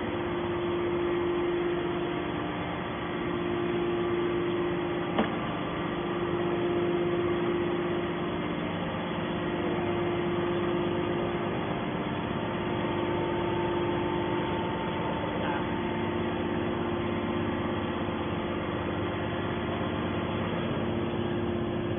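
Hydraulic scrap metal baler running, a steady machine hum with a strong low whine held throughout, and a single sharp knock about five seconds in.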